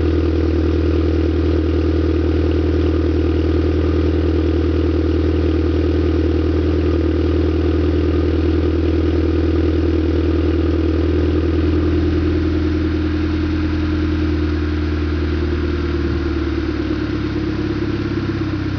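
GTI engine idling through a Scorpion turbo-back exhaust with no resonator, a steady deep exhaust drone after a cold start. About twelve seconds in, the idle pitch and level drop slightly, the high cold-start idle settling down.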